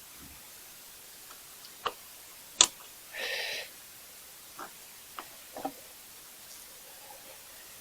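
Scattered light clicks and knocks of hand tools and parts being handled while working on a truck, the sharpest about two and a half seconds in, with a short rasp about half a second later and a few softer knocks after that.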